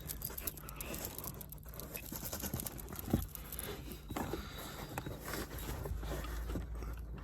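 Hands working at the van's floor carpet around the gear-lever base: scattered scraping, rustling and small clicks, with one sharper knock about three seconds in.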